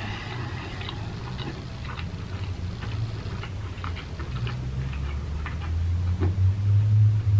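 Close-miked eating: scattered small wet clicks of chewing and mouth sounds, with a low hum underneath that grows louder in the last couple of seconds.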